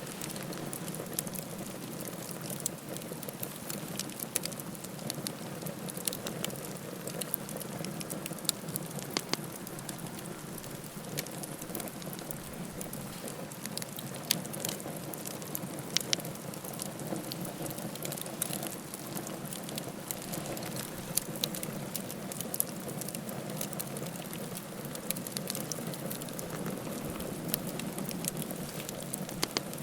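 Wood campfire burning: a steady low rush of flames with frequent small sharp crackles and pops from the burning wood.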